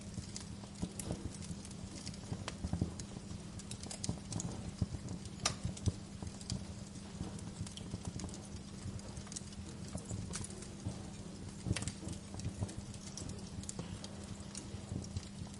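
Wood fire crackling in a fireplace: irregular sharp pops and snaps over a low steady background, with a few louder pops about five and a half and twelve seconds in.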